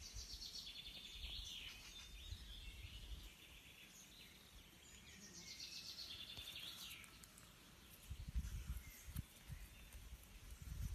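Faint bird chirps and trills in the background, coming in spells, with a few low rumbling bumps about eight seconds in and again near the end.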